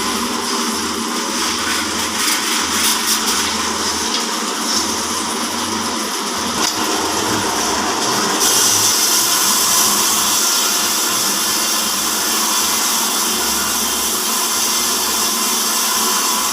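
Horizontal band sawmill running. About halfway through the sound brightens and gets slightly louder, then holds steady.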